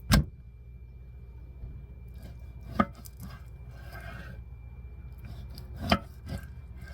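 Kitchen knife striking a cutting board: three sharp chops about three seconds apart, with quieter scraping and handling sounds between them.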